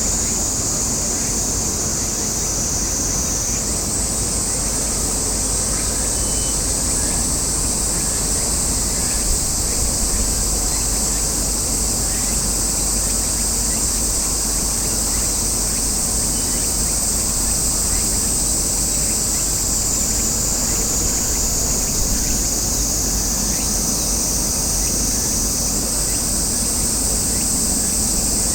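A steady, high-pitched chorus of summer cicadas that shifts pitch slightly a few times, over a continuous low rumble.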